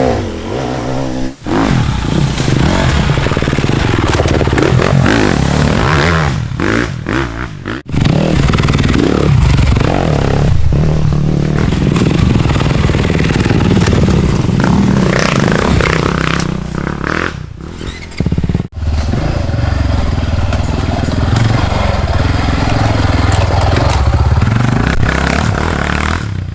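Dirt bike engines revving hard on an enduro trail, with clatter and scraping. The sound breaks off suddenly and changes character several times, about 1.5, 8 and 19 seconds in, as short clips are cut together.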